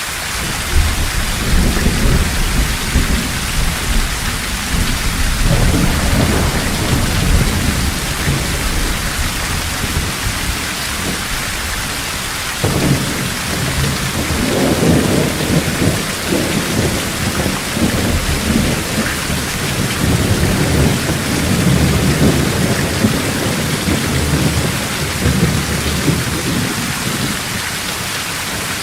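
Heavy rain with rolling thunder over a steady hiss of rainfall. A deep rumble builds about a second in and dies away, then a sharper clap comes about halfway through and rolls on in waves until near the end.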